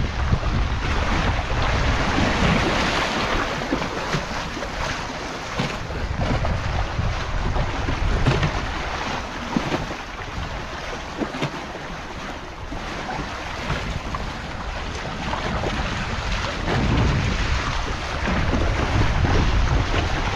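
Strong storm wind blowing in gusts and buffeting the microphone, with low rumbling that swells and eases.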